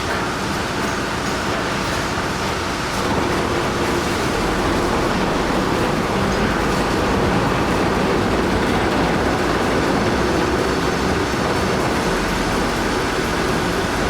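Heavy machinery running: a steady, loud mechanical noise that grows a little louder about three seconds in.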